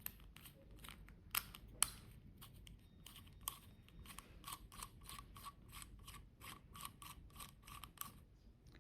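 Small sharp clicks and scrapes from an aluminum part being handled, settling into a regular run of about three or four clicks a second in the second half.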